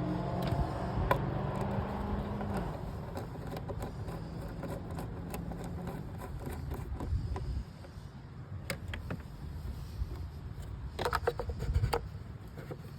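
BMW engine running with a steady hum that eases off about two and a half seconds in and drops away about seven and a half seconds in. A few sharp clicks and rattles come near the end.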